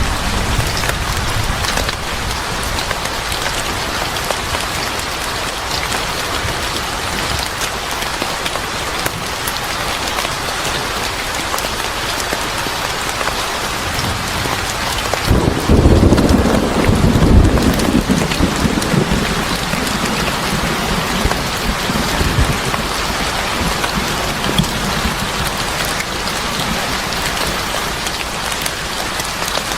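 Steady heavy rain falling, with a low roll of thunder about halfway through that swells for a couple of seconds and then dies away.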